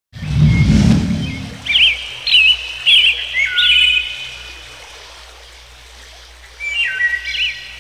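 Bird chirps in two runs of quick up-and-down calls with a few longer level whistles, after a low rumble in the first second.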